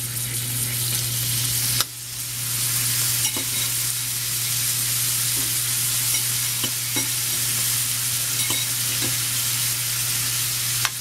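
Shrimp frying in hot oil with diced red bell pepper and garlic in a stainless steel skillet, a steady sizzling hiss. The sizzle dips briefly about two seconds in, and a few faint clicks sound over it.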